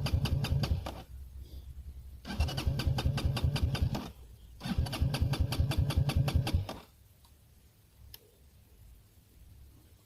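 Minsk X200 motorcycle engine given three short bursts of throttle, each a second or two long, with a low idle between them; it goes quiet about seven seconds in.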